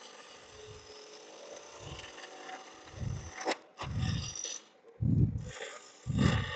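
Wood lathe spinning a log at about 1,600 RPM while a turning tool takes repeated cuts to true it up. The cuts come as bursts of scraping about once a second, and a sharp click sounds about three and a half seconds in.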